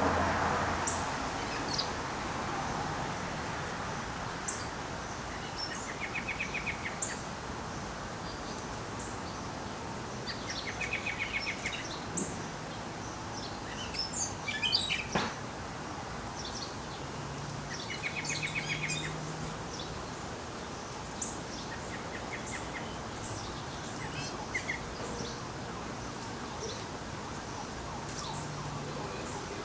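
Wild birds calling: one bird repeats a short, rapid trill every few seconds, with scattered high chirps from others in between.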